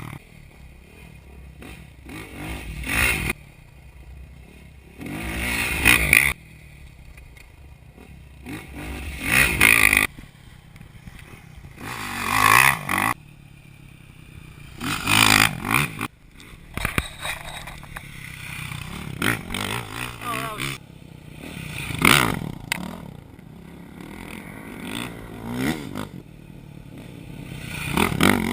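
Dirt bike engine revving again and again: the throttle builds up hard and then snaps shut about every three seconds.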